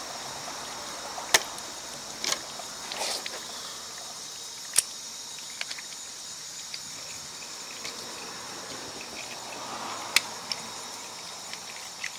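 A few sharp clicks and knocks, like small hard objects being handled, over a steady high hiss; no engine is running.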